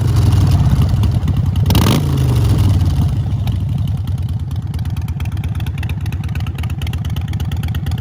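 Harley-Davidson Sportster 48's V-twin running through Vance & Hines Short Shots exhaust. There is a quick throttle blip about two seconds in, and the revs fall back to a steady, loping idle.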